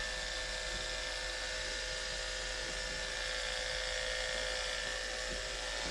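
Andis electric pet clippers running with a steady buzz as they shave through a cat's matted coat close to the skin.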